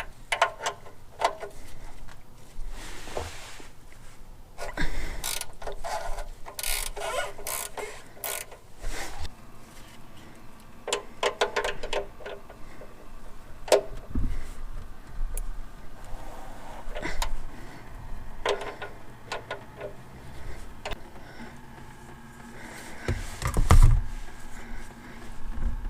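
A wrench working the 5/8 oil drain plug of an oil pan: irregular metallic clicks and clanks, some in quick runs, with a louder low thump near the end.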